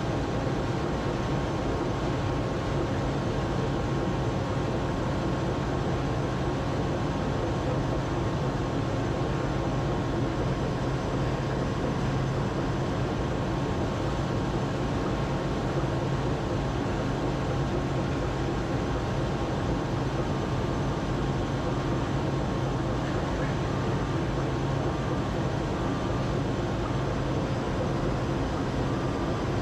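Steady, unchanging mechanical drone with a strong low hum and a few faint steady tones above it, such as a vehicle running and heard from inside.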